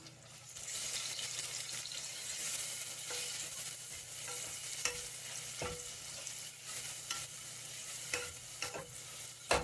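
Onions sizzling as they fry in oil in a pan, stirred now and then with a utensil that scrapes the pan a few times.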